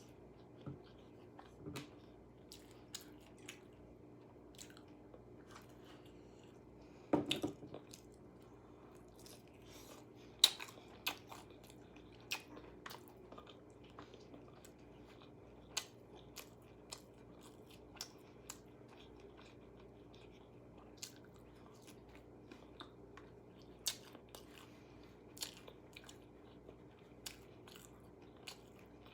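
A person chewing and biting into a KFC meal, with scattered crisp crunches and a louder burst of crunching about seven seconds in, over a faint steady hum.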